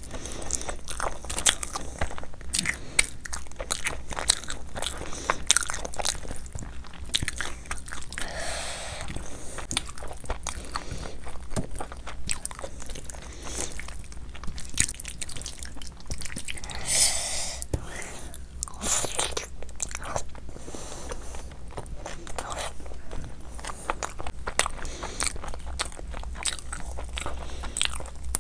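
Close-miked eating by hand: a person biting and chewing mouthfuls of rice-and-lentil khichdi with mutton liver, a dense run of short wet mouth clicks. Two longer hissy sounds come about eight and seventeen seconds in, the second the loudest.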